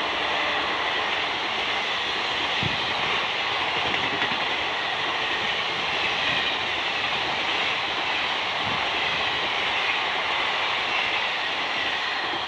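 Indian Railways passenger coaches rushing past at high speed: a steady, loud rumble and rattle of wheels on the rails, with a few faint thuds.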